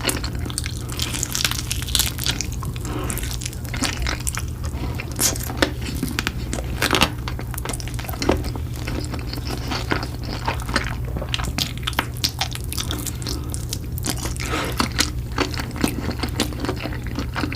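Close-up eating sounds: irregular crunchy bites, chewing and wet mouth noises, over a steady low hum.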